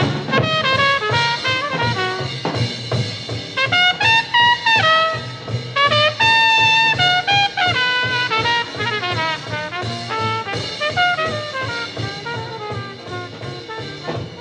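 Bebop jazz: a brass horn, most likely trumpet, plays fast runs with a few held high notes over a drum kit and bass.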